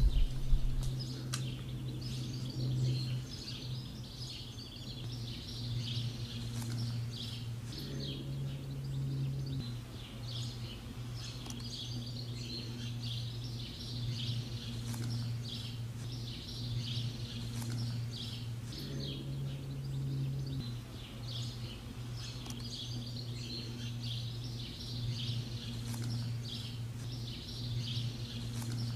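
Outdoor birdsong: many small birds chirping and singing on and off, over a steady low hum.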